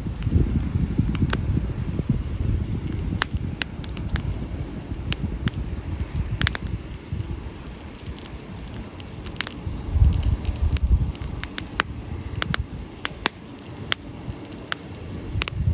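Wood campfire crackling: sharp pops and snaps at irregular intervals over a low rumble that swells near the start and again about ten seconds in.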